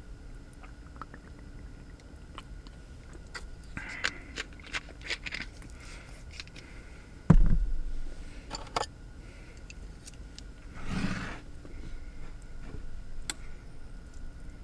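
Close-up handling of objects in a small enclosed space: scattered clicks and light knocks, a heavy thump about seven seconds in, and a brief scrape a few seconds later, over a faint steady hum.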